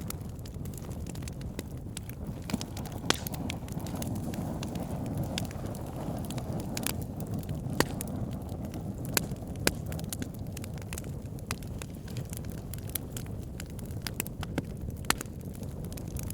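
Wood fire burning, with logs crackling and popping in sharp irregular snaps over a steady low rumble.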